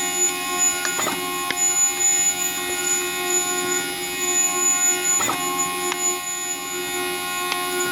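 Zebra printer making a sharp squeaking noise: a steady high squeal made of several held tones. A short knock comes about a second in and again about five seconds in, with a few light ticks between.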